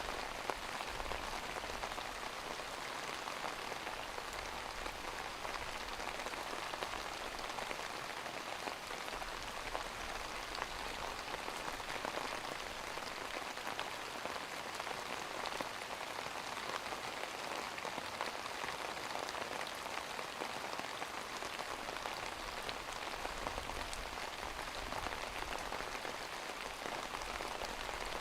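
Steady rain, a dense even patter of drops that does not let up or change.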